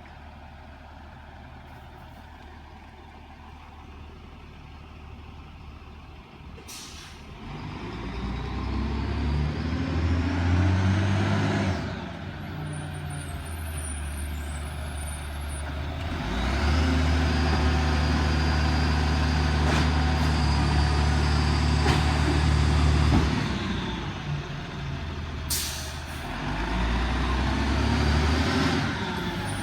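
Garbage truck's diesel engine revving up and running at raised speed in two long spells, with a sharp air-brake hiss about seven seconds in and another near the end.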